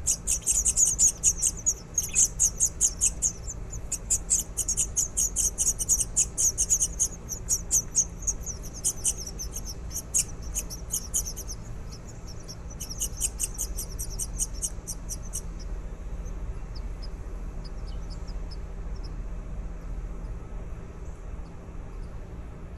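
Baby birds chirping in rapid runs of short high-pitched calls; the chirping breaks off about eleven seconds in, returns briefly, then thins to scattered faint chirps.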